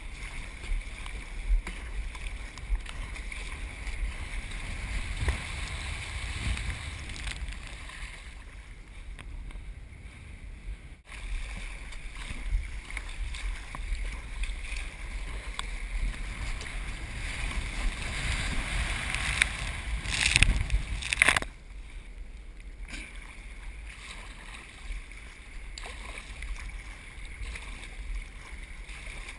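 Ocean surf and wind noise rumbling on the microphone, with the rush of breaking water. The rush swells louder about twenty seconds in, then drops off abruptly.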